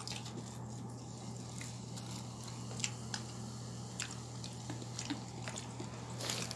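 A person chewing food, with soft scattered clicks of eating, over a steady low hum.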